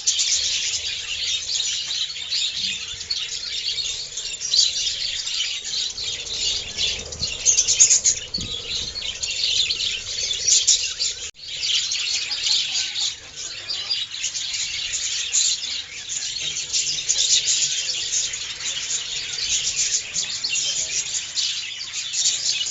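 A flock of budgerigars chattering continuously, with many high chirps and warbles overlapping. There is a momentary break about halfway through.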